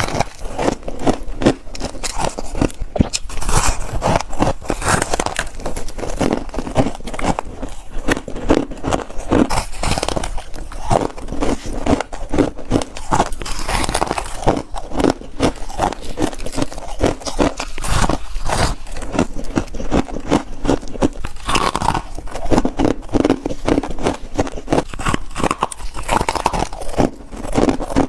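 A person biting and chewing chunks of freezer frost: a dense, continuous run of crisp crunches close to the microphone.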